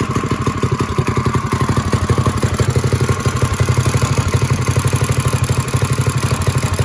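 Minibike engine idling steadily with an even, rapid firing beat. The idle is fast, which the owner thinks is a little too hard.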